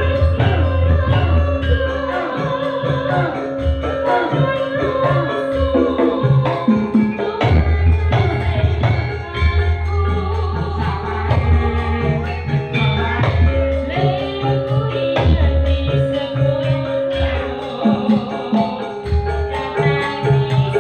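Javanese sragenan-style music played by a band: drum strokes under sustained instrument tones, with a singing voice.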